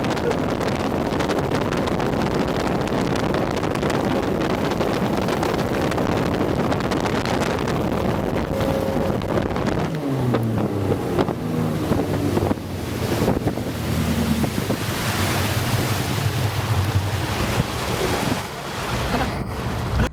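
Wind buffeting the microphone over rushing water and waves. About halfway through, a low drone comes in, first sliding down in pitch and then holding.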